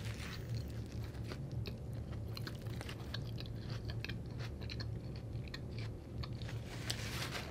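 Close-miked chewing of a mouthful of bagel sandwich with lettuce, with many small wet clicks and crunches. There is a brief louder noise near the end.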